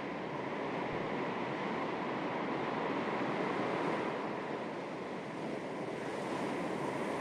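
Calm sea waves lapping at the shore: a steady wash that swells gently, eases a little midway and builds again.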